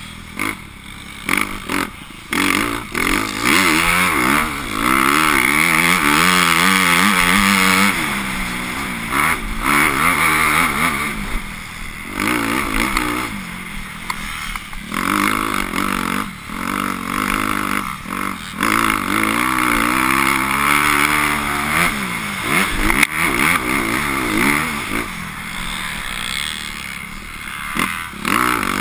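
Motocross bike engine being ridden hard, its revs rising and falling over and over as the throttle is opened and shut, with sharp knocks and clatter here and there.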